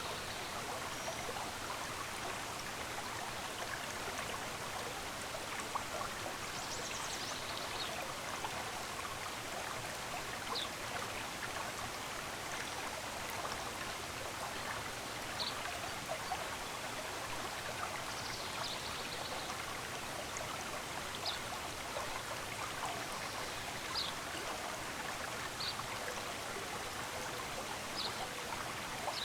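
Steady rush of a stream of running water, with short, high bird chirps every few seconds.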